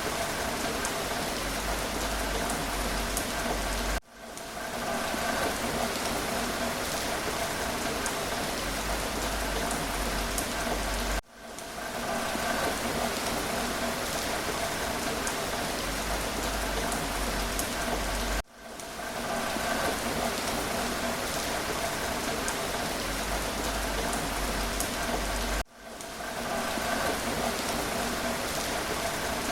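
Steady rain falling, an even hiss of drops on a surface. About every seven seconds it cuts out for a moment and fades back in over about a second, four times in all.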